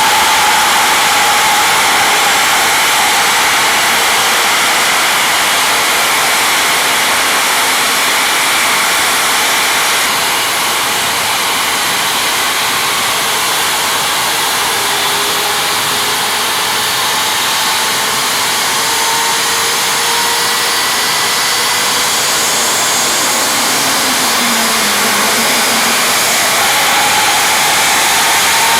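Ilyushin Il-86's NK-86 turbofan being motored on its air starter during a cold crank, without ignition, with the APU running: a steady loud rush of air with faint whining tones that drift slightly in pitch.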